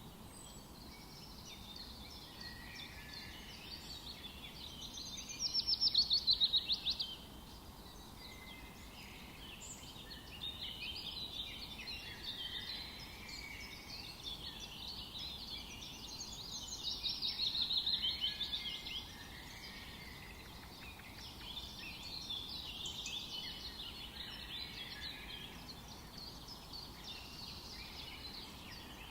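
Several songbirds singing in a forest chorus over a faint steady hiss, with a loud, fast trill standing out about five seconds in and again a little past the middle.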